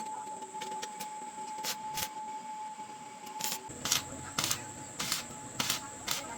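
Workshop hand-work: a string of sharp clicks and knocks, sparse at first and then about every half second in the second half, over a low rumble that starts about halfway through and a steady faint high tone.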